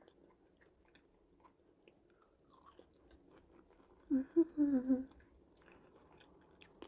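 Faint chewing of homemade french fries close to the microphone, with small clicking mouth sounds. About four seconds in, a woman gives a short hummed "mm" lasting about a second.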